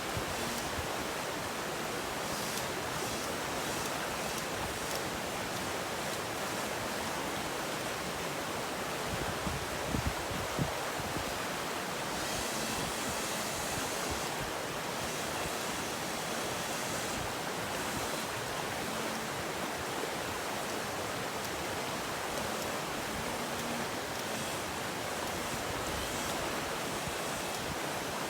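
River water rushing steadily, an even hiss, with a couple of brief knocks about ten seconds in.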